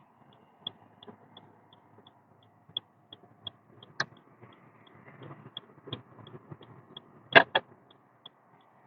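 Car cabin while driving: a faint low road rumble under an even, rapid ticking of about three to four ticks a second, with a sharp knock about four seconds in and a louder double knock near the end.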